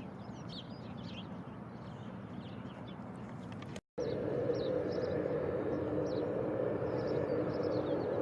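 Small birds chirping over a steady low rumble. After a brief dropout about four seconds in, a louder steady drone with a faint hum takes over while the chirping goes on.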